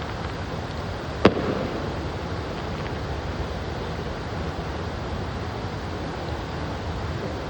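A single sharp firework bang about a second in, trailing off briefly, over a steady rushing background noise.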